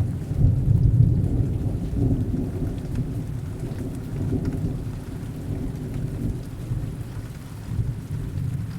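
Heavy rain with a low rumble of distant thunder, loudest in the first couple of seconds and then slowly fading.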